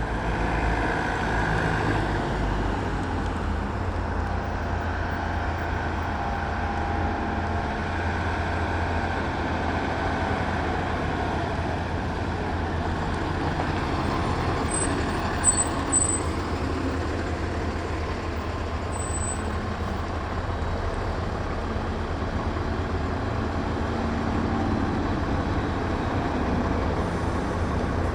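Heavy trucks driving past on a street, with a steady low engine rumble and road noise. A few short high squeaks and a brief sharp peak come around the middle.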